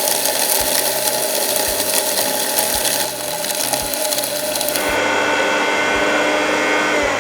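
Hamilton Beach Professional mixer grinder dry-grinding whole spices (coriander, cumin, fennel seeds, peppercorns, dried red chillies, cinnamon) on its dry preset at semi-fine, a loud steady whirring grind. The sound changes about three seconds in and again around five seconds, where the high hiss drops away.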